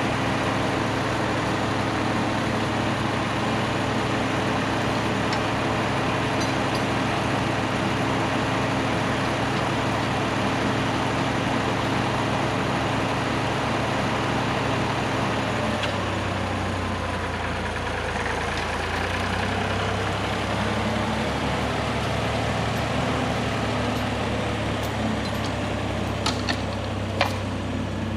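Tractor engine running steadily, its engine note changing about halfway through; a few sharp clinks near the end.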